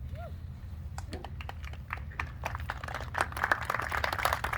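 Irregular sharp taps, sparse at first and growing denser from about halfway, over a low steady hum.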